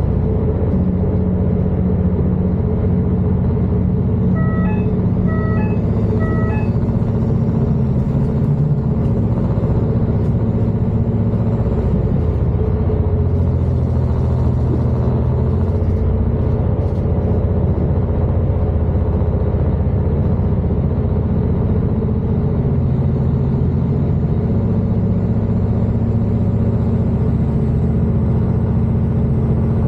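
Class 221 Super Voyager diesel-electric tilting train running, heard from inside: a steady low engine and running rumble. A short run of electronic beeps sounds about five seconds in.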